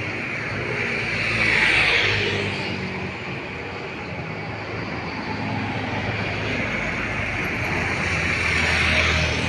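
Road traffic: a steady low engine hum, with vehicles passing in two swells of engine and tyre noise, about two seconds in and again near the end.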